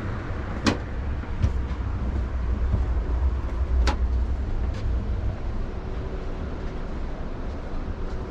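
Low, steady rumble of a moving passenger train heard from inside the car, with a few sharp clanks: a loud one about a second in, another near the middle, and two fainter ones.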